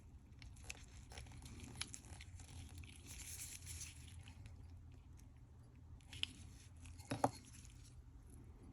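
Faint small clicks and rustles of tiny watch parts being handled and fitted, with two sharper ticks towards the end.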